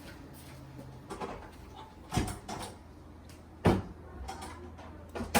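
Three separate knocks or clunks of objects being handled and set down, about a second and a half apart, over a steady low hum.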